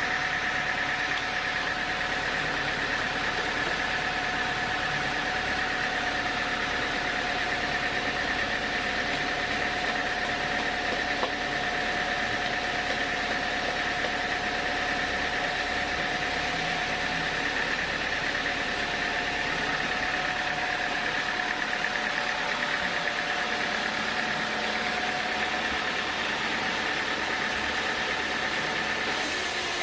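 Sawmill machinery running steadily, with a constant whine over a spread of machine noise; the sound changes abruptly right at the end.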